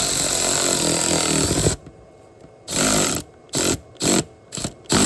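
A handheld power tool driving a bolt into an engine: one long run of about two and a half seconds, then five short trigger bursts as the bolt is snugged down.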